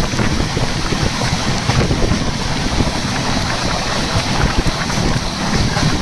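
Wind buffeting the microphone over the steady rumble of a moving train.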